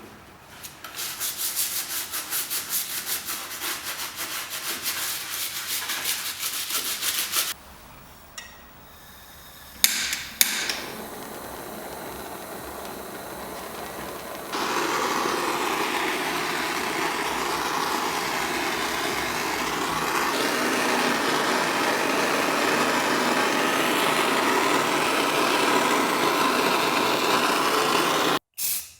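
Hand sanding, rhythmic rubbing strokes about three a second. After a pause and a couple of knocks comes a long, steady abrasive rubbing that cuts off suddenly near the end.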